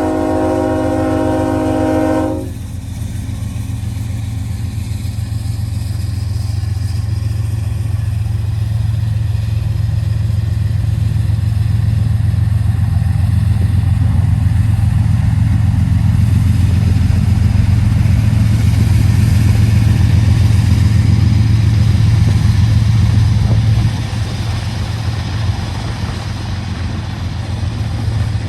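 Freight locomotive air horn sounding a blast of about two seconds. Then the diesel locomotives run with a deep rumble as the Norfolk Southern freight train pulls away, growing louder and dropping off suddenly about four seconds before the end.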